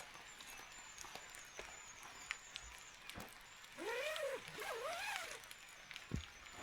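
Quiet wet-forest ambience with a faint hiss and scattered small drips and clicks. About four seconds in, a squeaky sound that rises and falls in pitch comes two or three times in quick succession.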